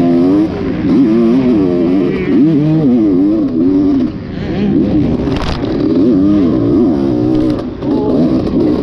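Dirt bike engine being ridden hard, its pitch rising and falling over and over as it revs up and drops off between shifts. A brief sharp clack comes about halfway through.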